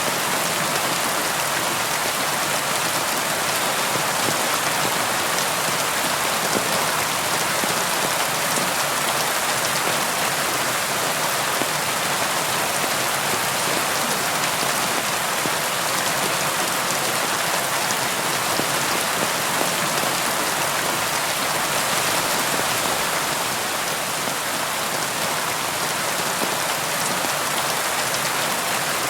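Steady heavy rain falling on a tin roof: an even hiss of dense drop impacts, with many fine individual ticks and no thunder.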